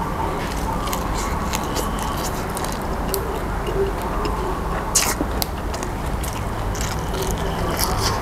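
A person chewing and biting crisp fresh herbs, with wet clicking mouth sounds scattered through, over a steady background hum. One sharper click comes about five seconds in.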